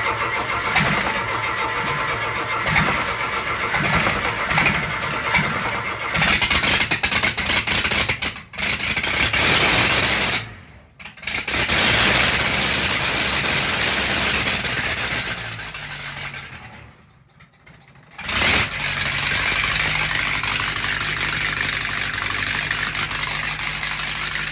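Case 1845 skid steer's diesel engine cold-starting after an injection pump rebuild. The starter cranks with an even beat for about six seconds before the engine fires and runs up, cutting out briefly a couple of times. Near the end it settles into a steady idle.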